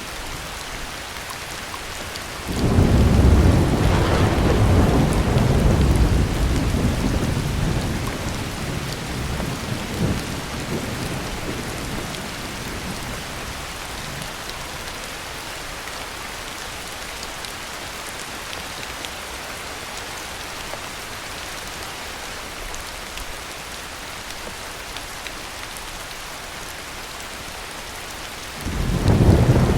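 Heavy rain falling steadily in a thunderstorm. About two and a half seconds in, a roll of thunder starts suddenly, stays loud for several seconds and rumbles away over the next several. A second roll begins near the end.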